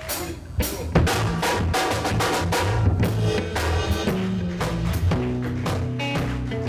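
Live gospel band playing an instrumental groove: a drum kit with kick, snare and rimshots kicks in about a second in, over a low bass line and held chords.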